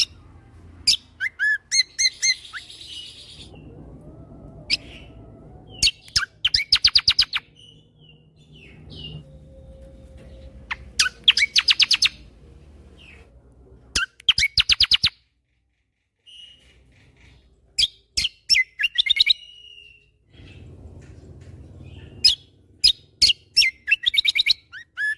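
Kecial kombo songbird singing in bursts. Rapid trills of sharp, fast-repeated notes (the 'tembakan') alternate with high chirps and short whistles, with brief pauses between phrases.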